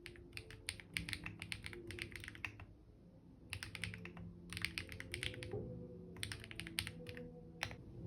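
Typing on a computer keyboard, in three quick runs of keystrokes separated by short pauses, with one last keystroke near the end. Soft, steady background music plays underneath.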